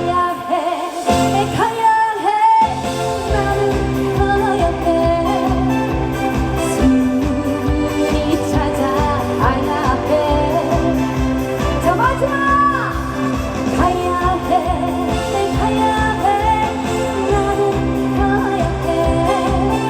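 Live trot song: a woman singing over a backing track with a steady beat. The bass and beat drop out for a moment about a second in, then come back.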